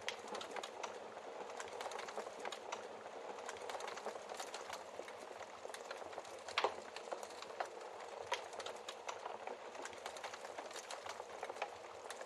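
Wood fire crackling in a fireplace: a steady hiss full of small crackles, with a few sharper log pops, the loudest about six and a half seconds in.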